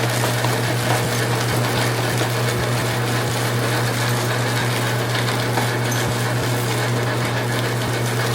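Electric grinder running steadily, cracking cacao beans still in their shells: a constant low motor hum with a crackly grinding noise over it.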